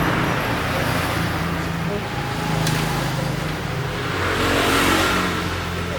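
Road traffic passing, with the noise of vehicles swelling and fading twice, at the start and again about five seconds in, over a low steady hum.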